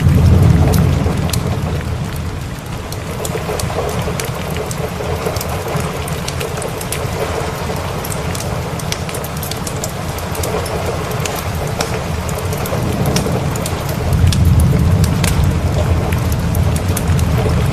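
Steady rain with rolling thunder, the deep rumble swelling at the start and again about fourteen seconds in, while a wood fire crackles with frequent sharp pops.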